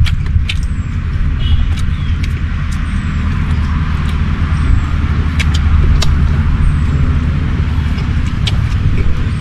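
A steady low rumble with many short, sharp clicks scattered through it.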